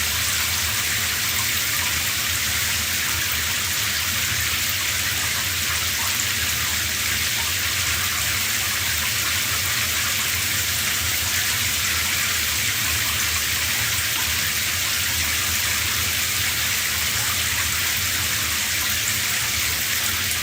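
Shower running steadily, water spraying and splashing down in a constant hiss.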